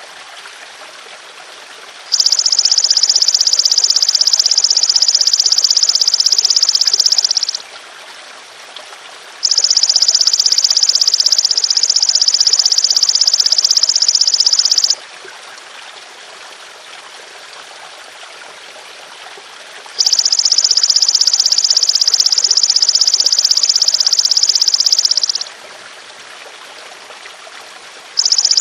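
Belalang emas (golden grasshopper) buzzing in long, loud, high-pitched calls of about five seconds each, four of them with a few seconds' pause between, the last starting near the end. Under it, a steady trickle of running water.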